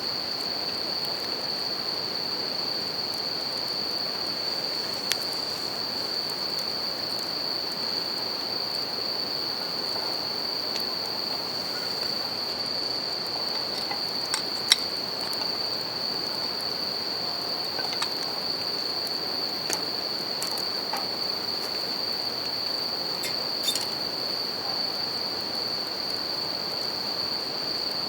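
Bell crickets (suzumushi) singing as a continuous high ringing tone over the steady rush of a river, with a campfire giving scattered sharp crackles and pops, the loudest about halfway through.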